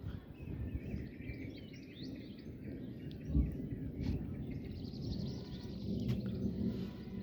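Several birds chirping and trilling over a steady low rumbling background, with a brief low thud about three and a half seconds in.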